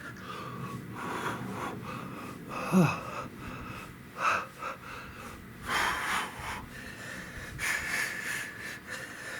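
A man breathing hard, in and out, while pedalling through a bike workout, with a short sigh that falls in pitch about three seconds in.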